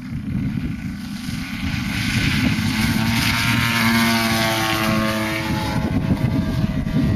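50cc gasoline engine of a radio-controlled F3A aerobatic model airplane flying by. It grows louder, then its pitch falls as it passes.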